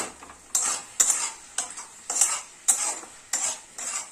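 A spatula stirring and scraping round a pan of frying chilli chicken in even strokes, about two a second.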